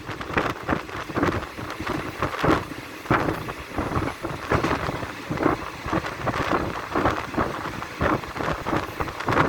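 Passenger train running, its rumble mixed with wind buffeting the microphone in gusts that rise and fall irregularly.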